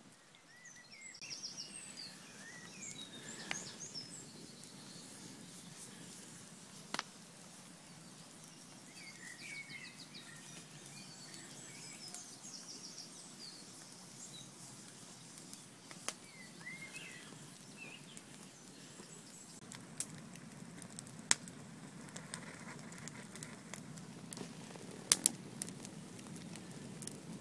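Wood campfire crackling, with scattered sharp pops, under birds chirping and singing.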